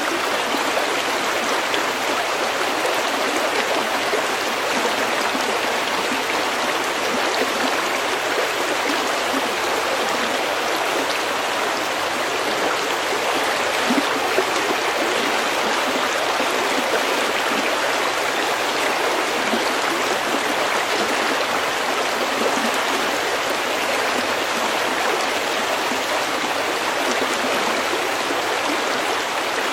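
Steady rushing and babbling of a stream flowing over pebbles, briefly louder for a moment about halfway through.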